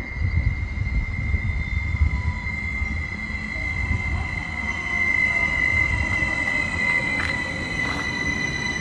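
Electric multiple unit rolling slowly into the station, giving a steady high-pitched metallic squeal over a low rumble, with fainter squeals gliding down in pitch in the second half. A couple of sharp clicks come near the end.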